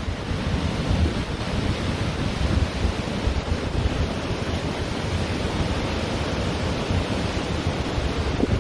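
Ocean surf washing on a beach, a steady rush of waves, with wind buffeting the microphone in low rumbling gusts.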